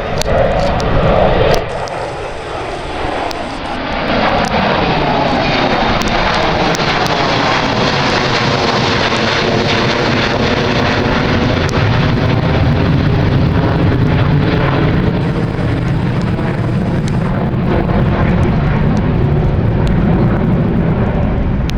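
Jet airliner's engines running loud as the aircraft passes close by on the runway, the sound sweeping in pitch as it goes past. A deep rumble builds in the second half.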